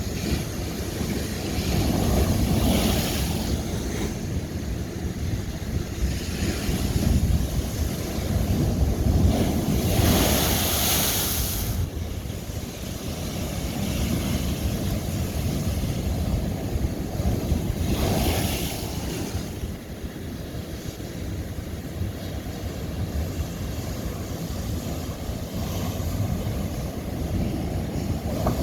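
Ocean waves breaking on old lava rock: a steady rushing surf with a low rumble, swelling into several crashes, the loudest about ten seconds in.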